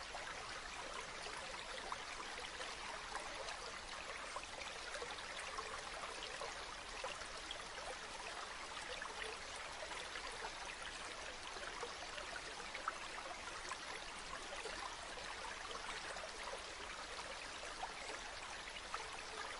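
Shrimp fried rice sizzling in a hot pan: a steady frying hiss with small scattered crackles and pops.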